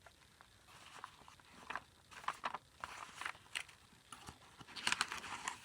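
Paper rustling and crinkling as a handmade junk journal's pages, envelopes and card are handled, with scattered light clicks and taps, busiest near the end.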